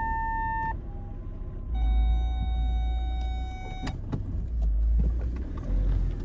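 Car parking-sensor warning: a steady high tone that cuts off under a second in, then a lower steady tone for about two seconds, meaning an obstacle is very close. Under it the engine rumbles, swelling several times as the car is edged back and forth in a tight turn.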